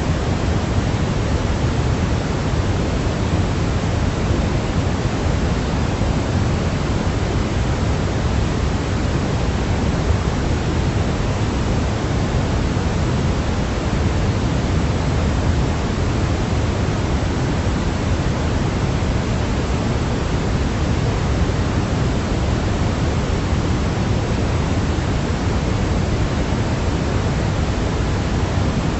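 Steady synthetic noise for infant sleep: an even, unbroken hiss, fuller in the low end than true white noise, much like pink noise.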